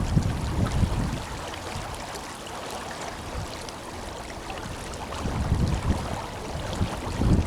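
The Tenryū River flowing, a steady rushing of water. Wind gusts rumble on the microphone at the start and again over the last couple of seconds.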